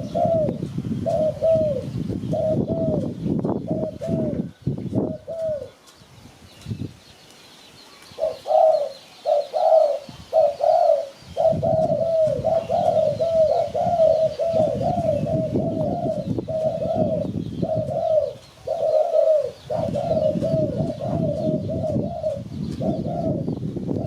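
Spotted dove cooing: runs of short repeated coos, breaking off for a couple of seconds about six seconds in and then going on more densely. A low rumble sits beneath the calls, and faint chirps of small birds are heard high above.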